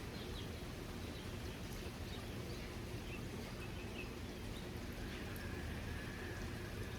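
Steady hiss of falling rain, with a faint thin high tone coming in about five seconds in.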